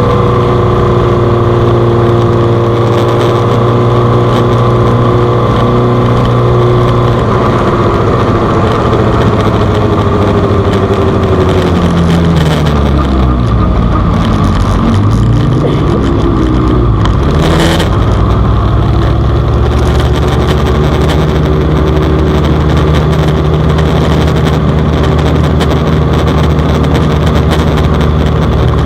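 Suzuki GSX-R600 inline-four engine heard on board, running at steady revs. About halfway through it slows with a falling pitch, then picks up again with a rising pitch, with a brief sharp knock in between.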